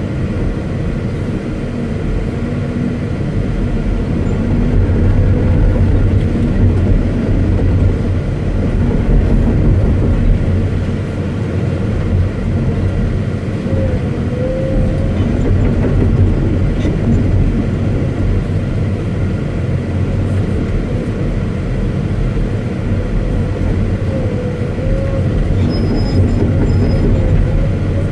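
Caterpillar 329E hydraulic excavator running, its diesel engine a steady low drone, with a faint wavering whine twice, near the middle and near the end.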